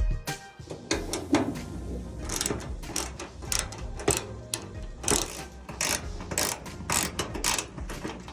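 Repeated sharp mechanical clicks, roughly three a second, over faint background music.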